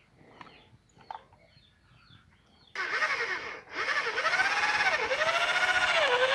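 Electric drill starting up about three seconds in and running with a whine whose pitch sags and recovers several times. It is a 220 V drill plugged into 110 V, so it runs weak and slow.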